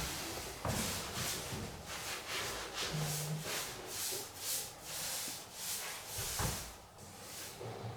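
Sandpaper rubbed back and forth by hand over a new wooden floor, about two rasping strokes a second, dying down near the end.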